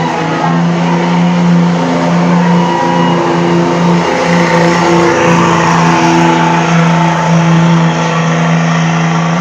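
Competition pulling truck's engine running hard at high, nearly constant revs under load: a loud, steady drone.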